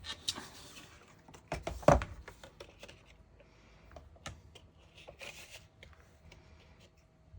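Paper being handled and trimmed on a craft work surface: scattered clicks and scratchy rustling, with one sharp knock about two seconds in.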